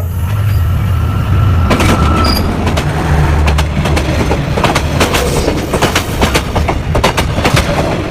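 Train rolling past with a heavy, steady low rumble and many sharp clacks from its wheels on the track.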